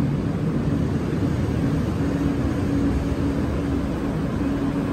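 Steady low rumble with a faint, steady hum from a light-rail train standing at an elevated station platform.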